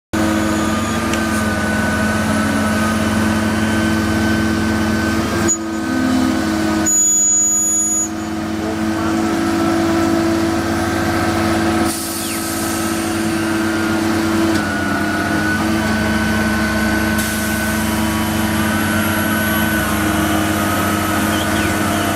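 Heavy vehicle engine running steadily, its tone holding with a faint wavering whine above it. The sound changes abruptly a few times.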